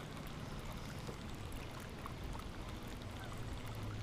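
Faint wind-driven water lapping against a boat's hull, with a steady low hum underneath.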